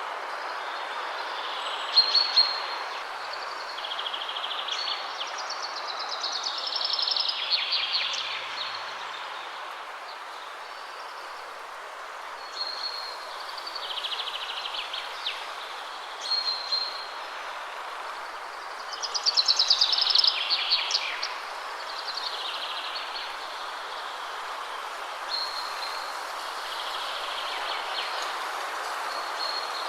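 Steady wind rushing through trees, with songbirds singing over it: short high repeated notes now and then, and twice a louder trilled phrase of about two seconds, the louder one about two-thirds of the way through.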